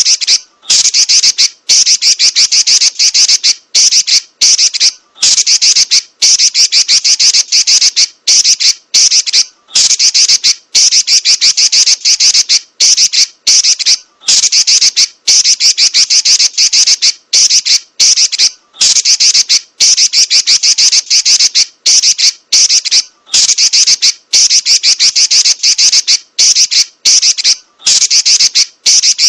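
Female Pekin robin (red-billed leiothrix) giving a loud, shrill, very rapid chattering trill ('nyerecet'), run together in long rolls broken by brief gaps.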